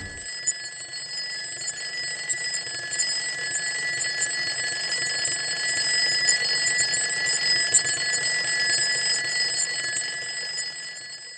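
A continuous alarm-like ringing: steady high tones over a fast rattle, slowly growing louder, then fading away near the end.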